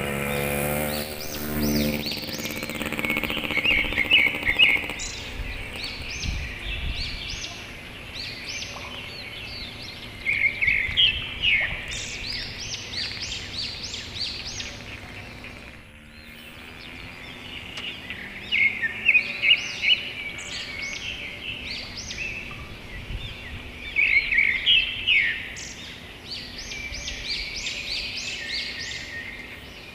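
Small birds chirping in short, quick clusters every few seconds, over a low rumbling background.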